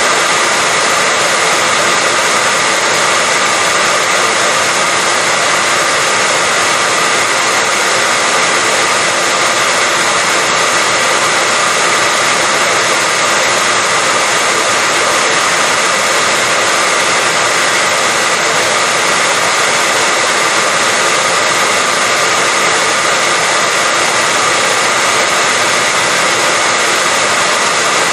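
Hair dryer running continuously at a constant speed: a steady rush of blown air with a faint, even whine from its motor.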